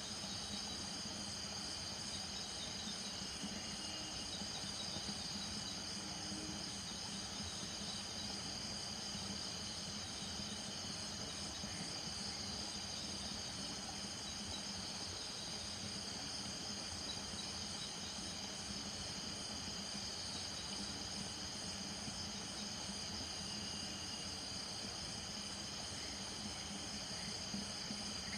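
Steady night chorus of crickets trilling without a break, with frogs calling lower underneath.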